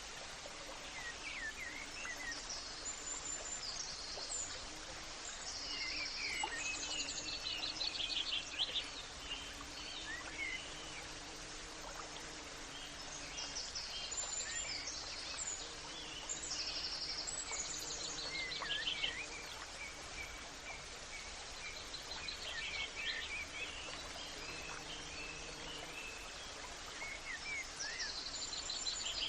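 Birdsong: several birds chirping, trilling and whistling, with bursts of song that come and go, over a steady background hiss of outdoor ambience.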